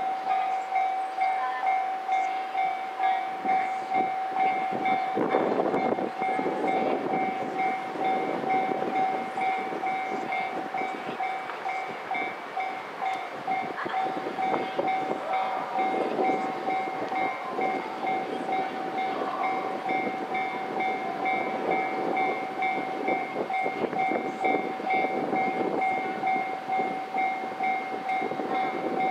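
E531 series electric train standing at the platform, giving off a steady high whine from its on-board equipment over irregular low rumbling and clatter.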